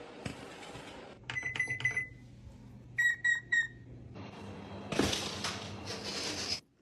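A quick run of about five short, high beeps, then three more about a second later, followed by a rustling noise with a single knock.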